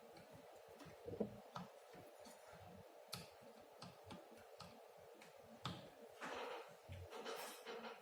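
Faint scattered clicks and light handling noises from work on a circuit board with small tools and parts, a little louder and scratchier about six to seven and a half seconds in.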